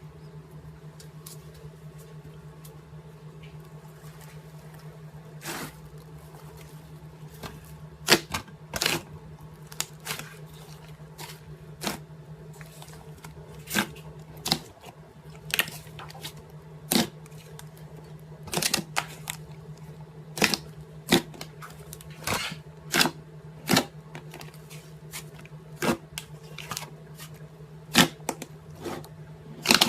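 Irregular sharp clicks or snaps, some loud, coming every second or two over a steady low hum.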